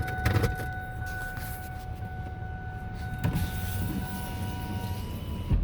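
Vehicle running, heard from inside the cabin as a steady low rumble. A steady high electric whine runs over it and shifts to a different pitch partway through. A low thump comes near the end.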